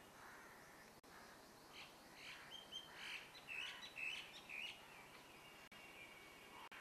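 Faint bird chirping: a quick run of short calls starts about two seconds in and goes on for about three seconds, over a steady faint hiss.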